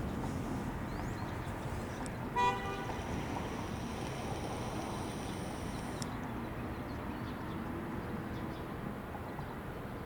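A single short horn toot about two and a half seconds in, over a steady low rumble of outdoor noise.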